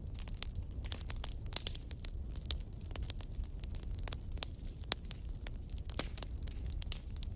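Fire crackling in a fireplace: irregular sharp pops and snaps, several a second and some louder than others, over a steady low rumble.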